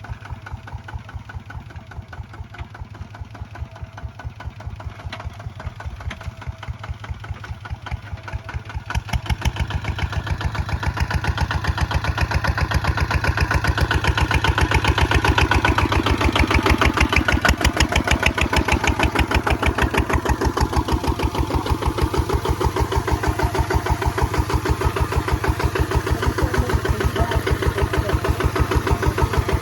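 Kubota ZT155 single-cylinder diesel engine running with a rapid, even beat of firing pulses; it grows louder about nine seconds in and stays loud from about fourteen seconds on.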